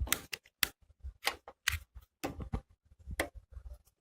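Chicken pieces frying in hot oil in a pan, the oil crackling with irregular sharp pops, a few each second.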